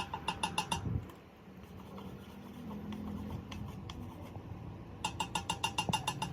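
Rapid light hammer taps on steel, ringing at a fixed pitch, about six a second, for the first second and again from about five seconds in, with a low workshop hum between.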